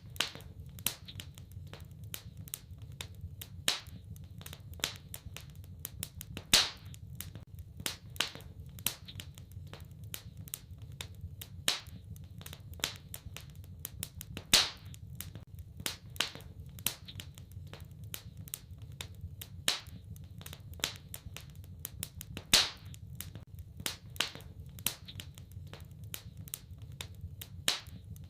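Wood fire in a fireplace crackling: irregular sharp pops and snaps, a few much louder ones every several seconds, over a steady low rumble.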